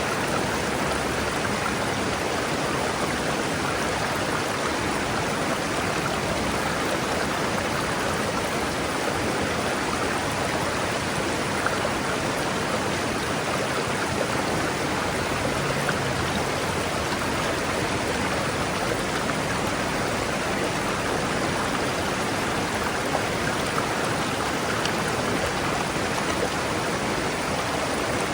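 River water rushing and splashing over rocks, a steady, unbroken rush with small splashes.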